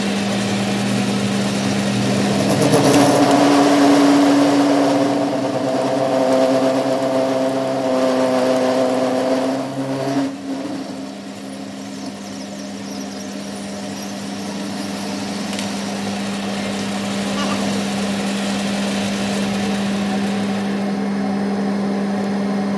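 A workshop machine running with a steady hum. Extra higher tones ride on it for several seconds and cut off about ten seconds in, leaving the hum alone.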